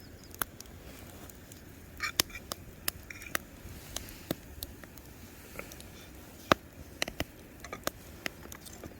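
Campfire crackling: irregular sharp pops, a dozen or so, over a low steady background, the loudest about six and a half seconds in.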